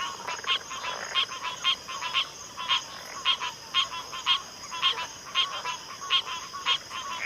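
Chorus of frogs calling in a backwater, short repeated calls about twice a second overlapping one another, over a steady high-pitched hum.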